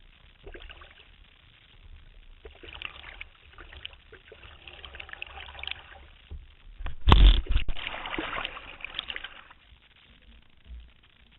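Water splashing and sloshing around a canoe, with one loud sudden splash about seven seconds in.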